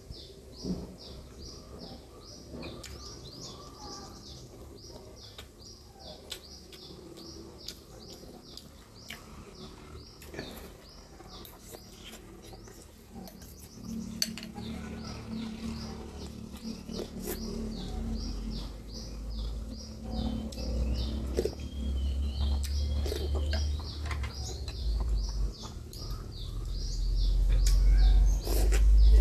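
Small birds chirping over and over in short, high notes, with faint clicks of a spoon and the mouth sounds of someone eating soup. Partway through a low hum and rumble come in and grow louder, loudest near the end.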